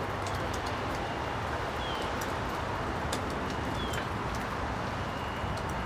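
A bird chirping twice, short falling notes, over a steady background hiss, with a few faint light clicks of small parts being handled.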